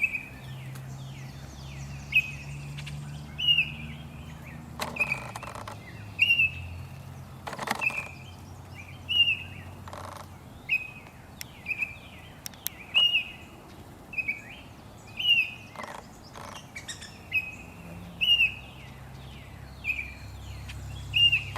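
A bird calling a short, hooked chirp over and over, roughly once a second, over a steady low background hum, with a few brief knocks.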